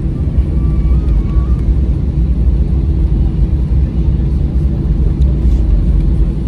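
Steady cabin noise inside an Airbus A320-214 with its CFM56-5B engines running on the ground before takeoff: a constant low rumble with a steady hum over it.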